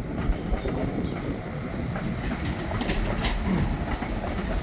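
A train running along the track, a steady rumble with no distinct horn or squeal.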